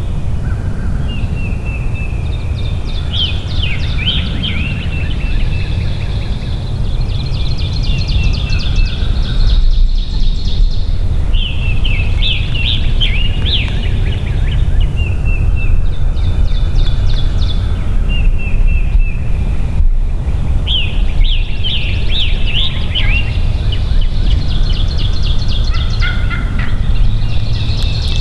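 Eastern wild turkey gobbler gobbling repeatedly, about half a dozen rattling gobbles spread through the stretch, over a steady low rumble.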